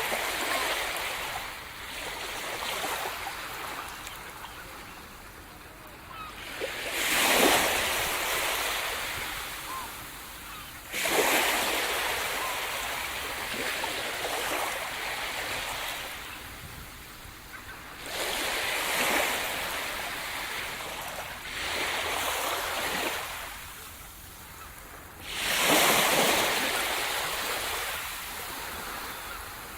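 Sea surf: waves breaking and washing onto the shore about every four to seven seconds, each surge building and fading away, with the loudest breakers about a quarter of the way in and near the end.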